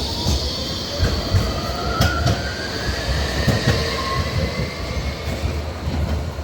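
A train moving through the station. Its wheels click sharply over rail joints and points under a low rumble, with a whine that slowly rises in pitch as it gathers speed, and a high squeal from the wheels.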